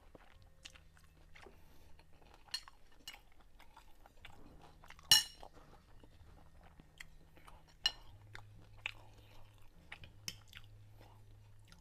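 A man chewing a mouthful of rice and stir-fried chicken gizzard, with scattered sharp clicks; the loudest click comes about five seconds in. A faint low steady hum runs underneath.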